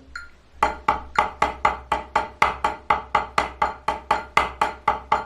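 Drumsticks playing an inverted paradiddle (right, left, left, right, then left, right, right, left, with an accent on the last note of each group). The strikes are sharp and evenly spaced, about five a second, and start just under a second in.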